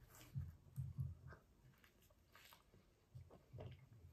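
Faint, close-up chewing of soft garlic bread: irregular soft thuds with a few small wet clicks, quieter in the middle.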